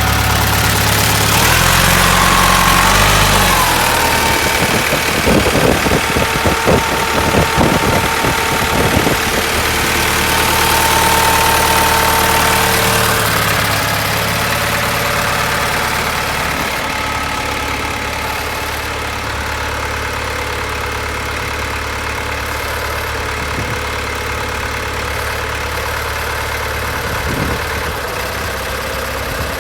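A 1970 John Deere 2520 tractor's six-cylinder engine idling. About two seconds in it is revved briefly and drops back to idle, then a few seconds of irregular knocks and rattles follow before it settles into a steady idle.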